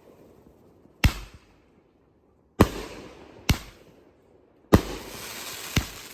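Madox Patriot Base 500 g firework cake firing: five sharp bangs, each fading off, spaced about a second apart, with a steady hiss running on after the fourth bang. The bangs are loud, hard-hitting shots.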